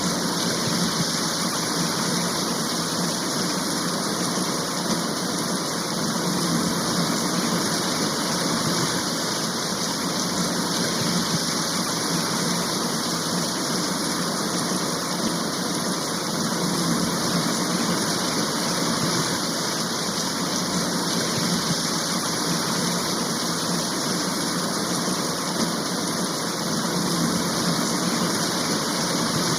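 Steady, heavy rain shower, an even rushing hiss that neither builds nor fades.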